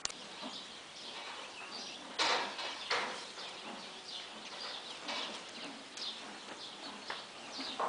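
Small birds chirping over and over in quick, high, falling notes. Two louder short noisy rushes come about two and three seconds in.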